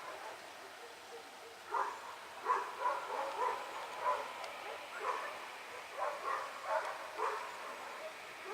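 A dog barking, a string of about nine short barks starting about two seconds in, irregularly spaced.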